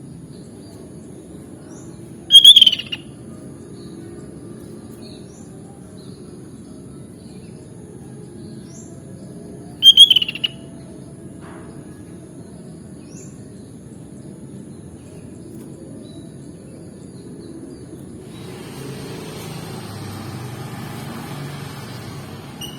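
Sooty-headed bulbul (kutilang) giving two short, loud calls about seven seconds apart, with faint scattered chirps between. A steady low hum runs underneath, and a hiss comes up near the end.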